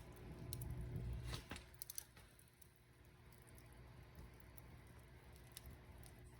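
Wood fire crackling: scattered sharp pops, several in the first two seconds and one more near the end, over a faint low rumble that drops away after about two seconds.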